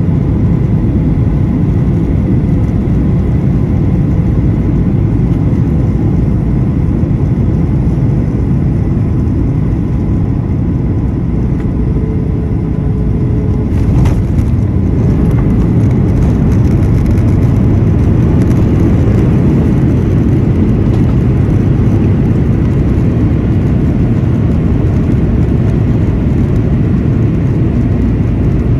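Airliner cabin noise during the landing: a loud, steady rumble of engines and rushing air, with a faint steady whine in the first third. A sharp thump comes about halfway through, and the rumble is a little louder after it.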